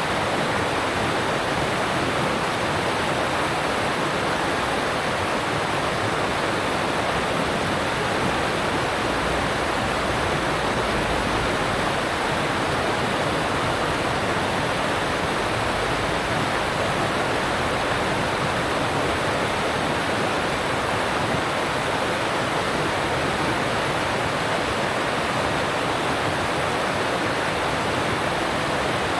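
Alpine stream of water rushing over rocks: a steady, even rush with no change in level.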